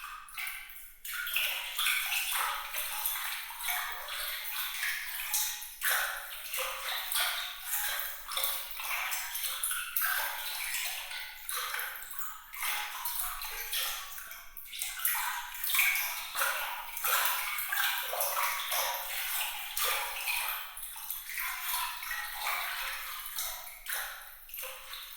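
Sparkling water sound: a continuous patter of small, bright splashes and drips with light pings, all high-pitched with no low rumble.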